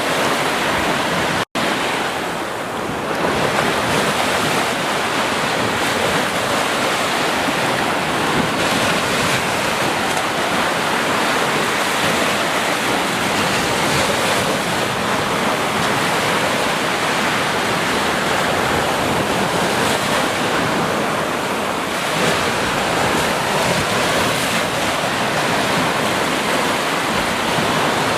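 Ocean surf washing continuously on a beach, a steady rushing noise with no single wave standing out. It cuts out for an instant about a second and a half in.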